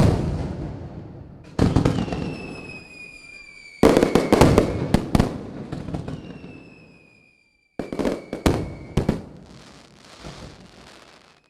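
Aerial fireworks going off in a string of loud booms and crackling bursts, each fading out, with high whistles slowly falling in pitch between them. The sound cuts to silence abruptly twice.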